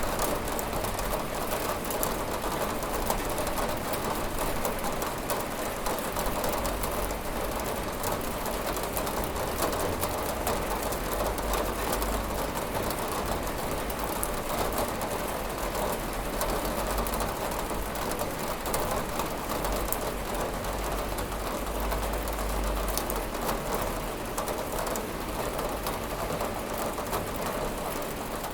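Steady rain falling and pattering on a window, a dense even hiss with fine crackling drops and no thunder.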